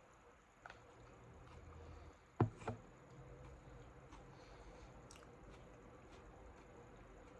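Quiet eating: faint chewing with a few light clicks, and two sharper clicks close together about two and a half seconds in.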